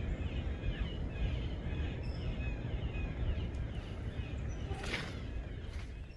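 Many small birds chirping and singing over a low, fluttering rumble. There is one short sharp rustle or knock about five seconds in, after which the rumble drops away.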